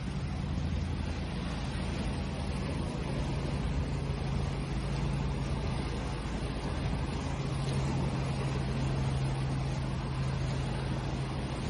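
Steady rushing noise of sea waves, with a constant low hum running underneath.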